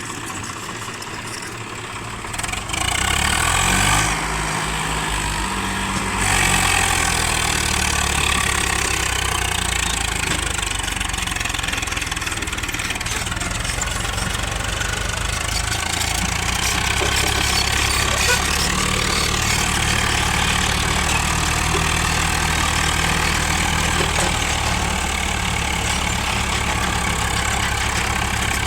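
Heavy diesel engine running steadily, stepping up in load or speed a few seconds in, then holding.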